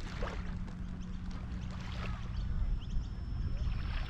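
Wind rumbling on the microphone outdoors, with faint distant voices. A thin, steady high whine comes in about halfway through.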